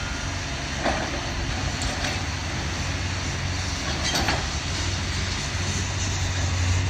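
Demolition excavator's diesel engine running steadily, with a few short knocks, about a second in and again about four seconds in, as it works on the building.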